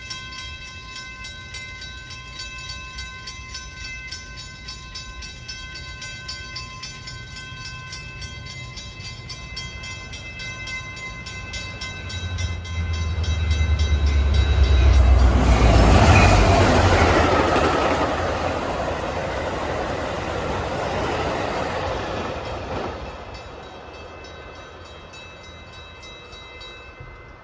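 A train passing through the station at speed without stopping: a deep rumble and rush that builds about twelve seconds in, is loudest around sixteen seconds, and fades over the following several seconds. Steady high ringing tones sound throughout and fade out near the end.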